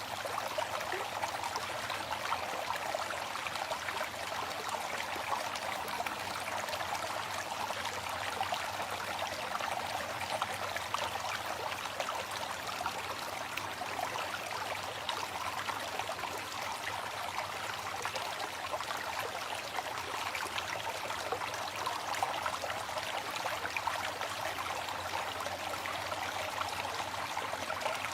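Waterfall: water falling and splashing without a break, an even rushing hiss that sits in the middle and upper range with little low rumble.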